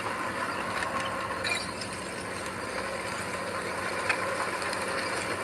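Heavy earthmoving machine running steadily with scattered metallic clicks and clanks, a sharp one about four seconds in.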